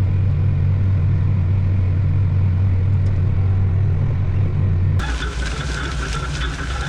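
Vehicle engine running at a steady speed, a deep even drone; about five seconds in it cuts off abruptly to a different, hissier engine sound.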